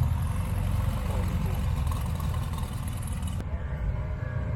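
A car engine idling with a deep rumble.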